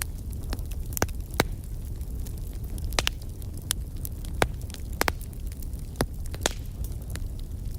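Fire crackling: sharp pops and snaps at irregular intervals over a steady low rumble of burning.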